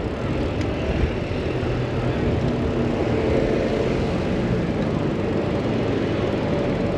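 Steady road traffic noise with the hum of vehicle engines running nearby.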